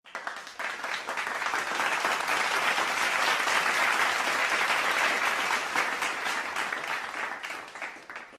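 Applause sound effect: a crowd clapping, swelling up over the first second or two and dying away near the end.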